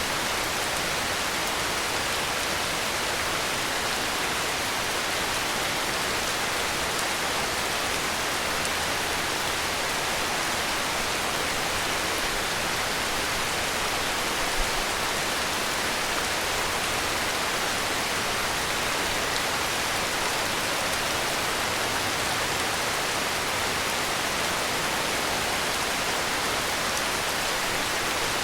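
Heavy rain falling steadily, an even hiss that does not change, with one soft low thump about halfway through.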